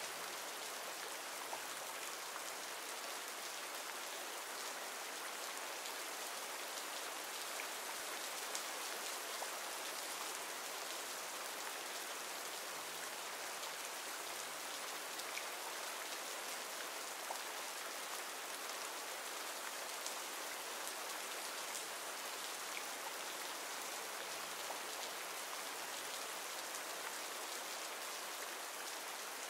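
Recorded steady rain ambience: an even hiss of falling rain with scattered faint drop ticks.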